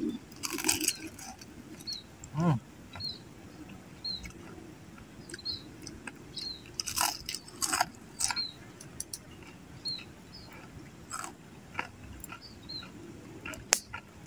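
Crunching bites and chewing of crisp deep-fried pandan leaves. The crunches come in separate bursts a few seconds apart, and there is a short pitched sound about two seconds in. A small high chirp repeats about once a second in the background.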